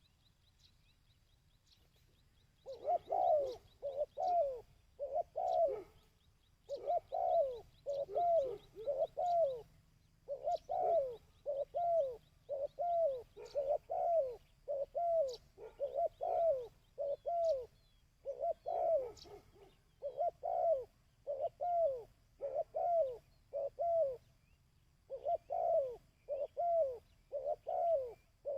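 Dove cooing: after about three seconds of quiet, a dove begins a long run of short, quick coo phrases, each a cluster of a few notes falling slightly in pitch, repeated steadily with short breaks between runs.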